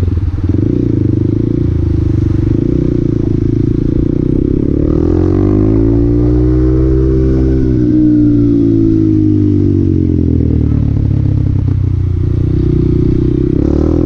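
Honda Grom (MSX125) single-cylinder 125 cc four-stroke engine running under way. It holds steady revs, then rises in pitch from about five seconds in and falls back again a few seconds later as the rider accelerates and then eases off.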